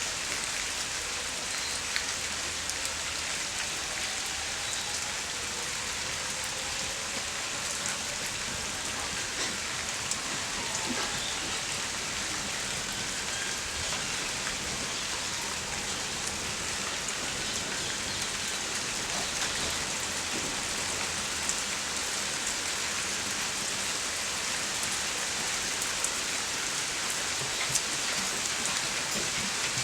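Steady rain falling and dripping on surfaces, with scattered small drips and taps.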